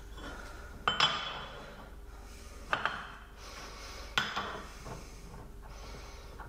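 Steel cups from a press and pull sleeve kit clinking against each other and the metal parts as they are handled and positioned: three sharp metallic clinks, each ringing briefly.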